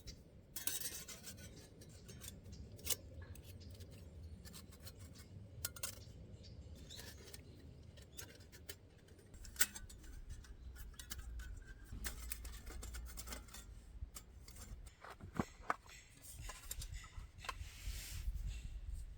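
Irregular small clicks and short scrapes and rubs from hands working with gear. A low rumble joins about halfway through.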